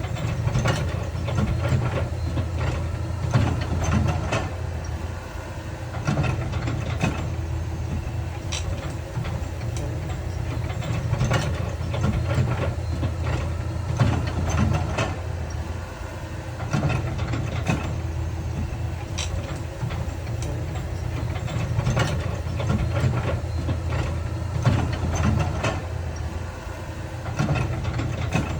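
Heavy diesel earthmoving machinery running steadily, with frequent irregular clanks and knocks from metal and rock.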